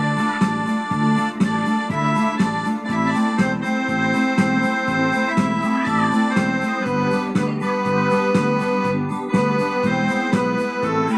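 Instrumental music on an electronic keyboard: sustained organ-like chords over a steady, rhythmic bass accompaniment.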